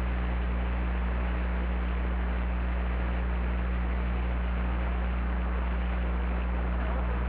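Steady hiss over a constant low hum, unchanging throughout.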